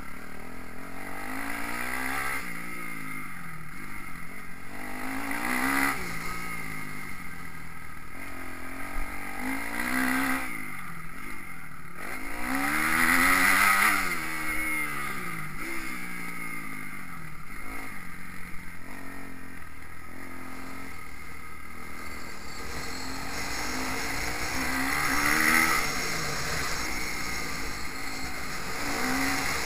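Motocross bike engines revving up and falling back over and over, the pitch climbing and dropping with throttle and gear changes. Several louder swells rise and fade along the way.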